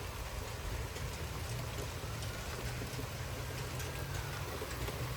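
Strong thunderstorm wind gusting steadily with rain, the wind buffeting the microphone as a low rumble.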